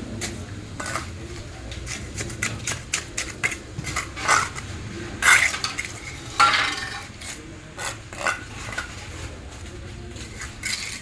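Metal hand tools scraping and clinking irregularly as fresh cement is worked into a patch in the pavement, with a few louder scrapes around the middle.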